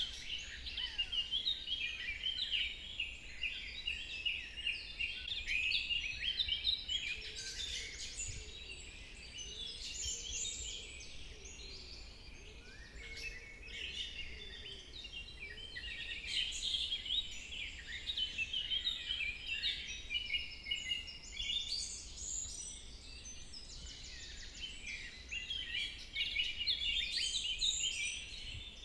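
Forest birds calling and chirping together, many overlapping high chirps and trills that swell and ease every few seconds, over a faint low rumble.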